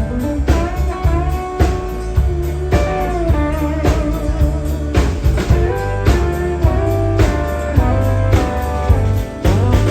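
Instrumental break of a country song: a guitar lead with bending, sliding notes over bass and a drum kit keeping a steady beat.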